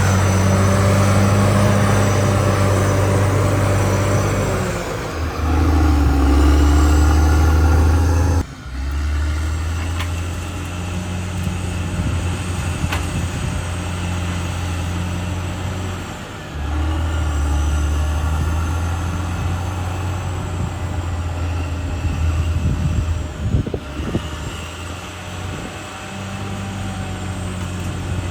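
CAT D6R XL bulldozer's diesel engine running hard, its note shifting down and up several times as the load changes. A few sharp knocks come near the end.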